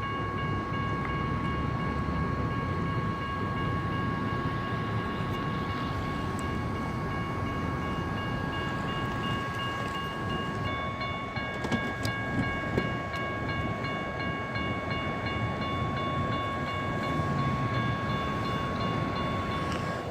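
Electronic railroad-crossing bells (GS Type 1 E-bells) ringing continuously, with more bell tones joining about halfway through. The signals are activated with no train present, which is a crossing malfunction. Steady highway traffic noise runs underneath.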